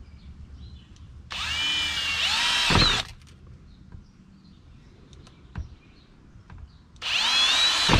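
Cordless drill boring into a piece of PVC pipe in two short runs of about a second and a half each, its motor whine rising in pitch as it spins up. The first run ends with a knock.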